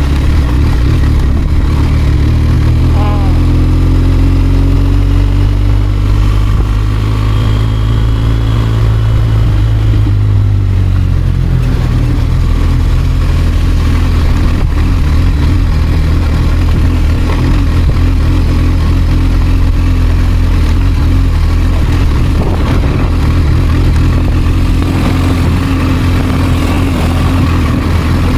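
BMW R1250GS boxer-twin engine running under way. Its note climbs gradually for several seconds, falls back about eleven seconds in, then holds steady, over a constant rush of road and wind noise.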